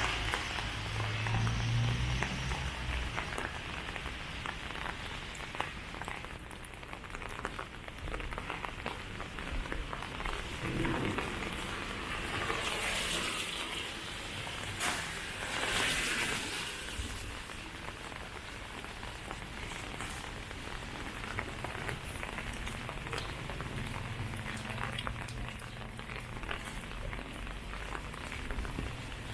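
Steady rain falling, heard as an even hiss full of fine drop ticks, with two louder hissing swells about halfway through.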